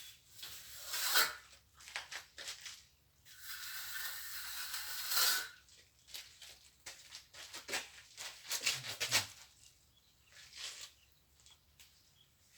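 Plastering trowel scraping and spreading cement mortar: irregular short scrapes and taps, with one longer scrape lasting about two seconds a few seconds in.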